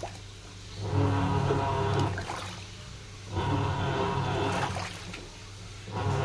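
Sharp washing machine in its wash cycle: the drive motor turns the wash load in three bursts of about a second and a half, with a low hum and a whine, pausing about a second between bursts, and water sloshing in the tub.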